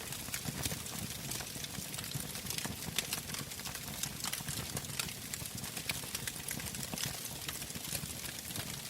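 Wood fire burning in a fireplace: irregular crackles and pops, several a second, over a low steady rumble of the flames.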